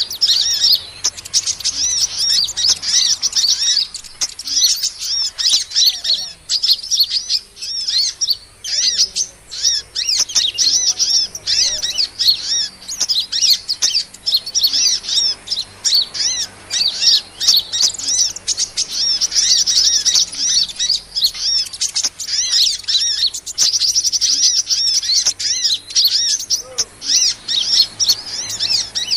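Small songbirds chirping in a dense, continuous stream of rapid, high-pitched notes, a recorded lure call of the kind played to attract small birds such as sunbirds.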